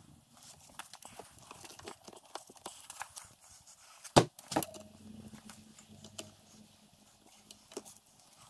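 Scattered clicks and knocks of tools and metal parts being handled as a car pedal box is reassembled, with a sharp, loud knock about four seconds in and a second one just after it.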